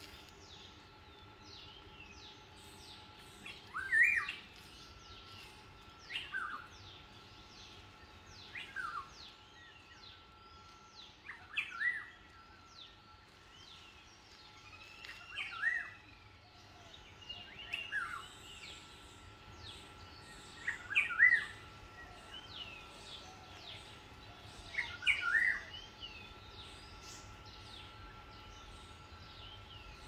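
A wild bird repeating a loud two-note whistled call about every three seconds, over fainter chirping from other birds and a faint steady high tone.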